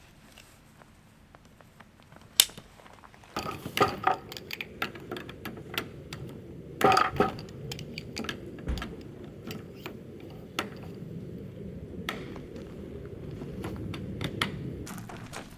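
Metal cookware and utensils clinking and knocking as they are handled, with a steady low rushing sound that starts a few seconds in.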